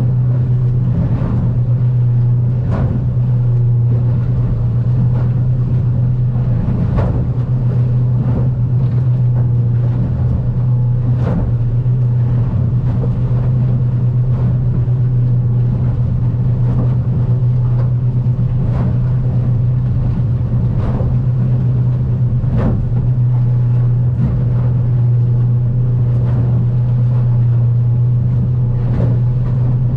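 Outboard engine of a Stabicraft 2050 aluminium boat running steadily at cruising speed in rough water, a constant low drone, with the hull knocking and slapping against the chop every second or two.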